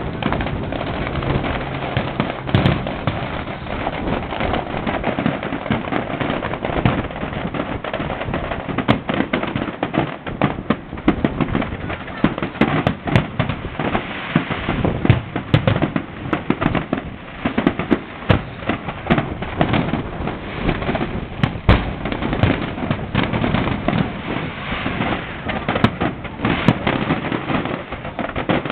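Fireworks going off in a dense, continuous stream of cracks and bangs, with no pause.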